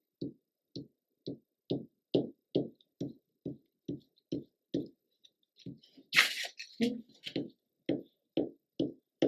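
Glue stick rubbed back and forth over paper in a steady rhythm, about two strokes a second, with a brief paper rustle about six seconds in.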